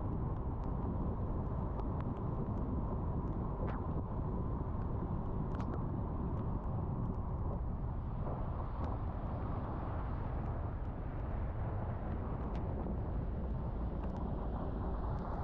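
Car driving on a wet road: a steady rumble of engine and tyres, with scattered faint ticks. A hiss of tyres on wet pavement swells about eight seconds in and again near the end.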